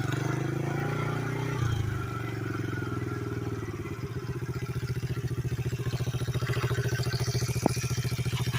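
Pit-bike three-wheeler's small single-cylinder engine running. The revs drop about two seconds in and it settles into a slow, even chug, with one sharp tick near the end.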